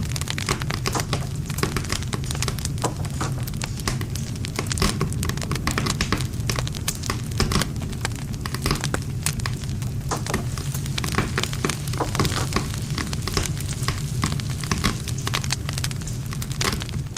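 Wood campfire burning, with dense, irregular crackling and popping of the burning wood over a steady low rumble of the flames.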